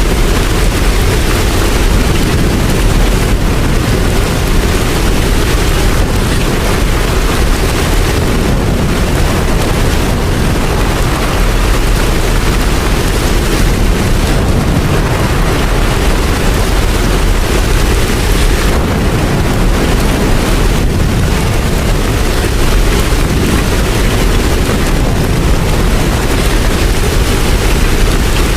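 Steady heavy rain: a dense, even hiss with a deep rumble underneath, unbroken throughout.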